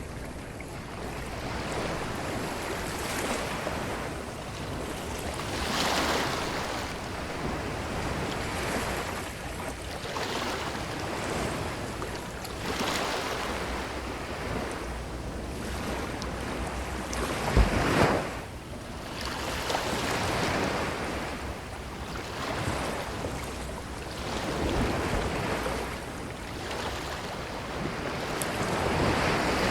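Ocean waves breaking and washing up a beach, swelling every few seconds. The loudest break comes about two-thirds of the way through.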